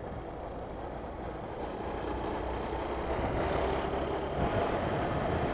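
Honda Bros 160's single-cylinder engine running as the motorcycle rides along, heard from the camera mounted on the bike. It grows a little louder about four seconds in.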